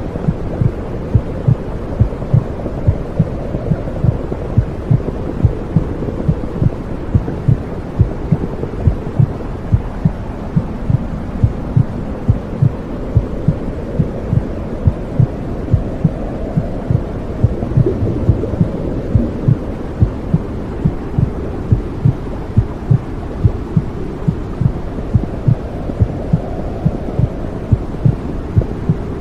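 Womb sound: a steady low whooshing noise with a heartbeat pulsing through it, short low thumps coming about twice a second.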